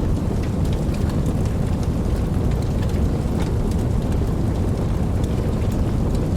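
Steady rainfall with a deep, even rumble and scattered fine drop ticks.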